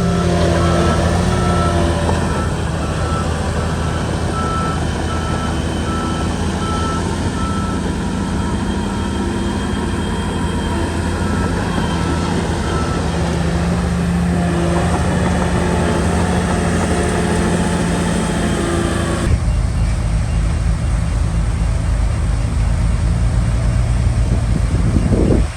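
Heavy diesel engine of a Shantui bulldozer running steadily while working. A backup alarm beeps repeatedly through roughly the first half. About three-quarters of the way in, the sound changes abruptly to a deeper rumble.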